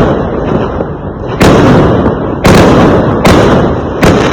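Fireworks exploding: four sharp bangs, about one a second, each trailing off in a rumble before the next.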